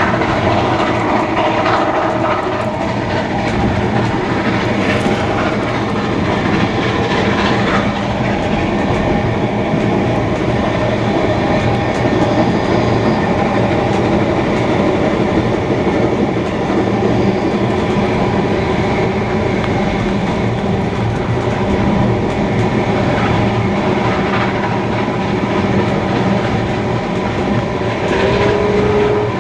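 Steam-hauled passenger train running at speed, its wheels clicking over the rail joints in a steady, loud rumble.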